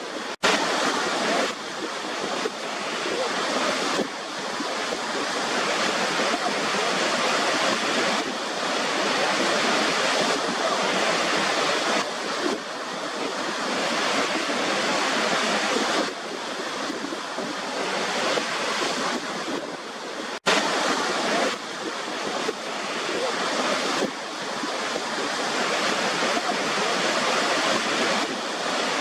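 Steady rushing hiss of a waterfall's falling water, dropping out for an instant twice, about half a second in and about twenty seconds in.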